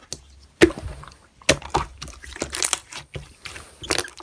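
Slime being squished and worked by hand, giving irregular sticky clicks and pops.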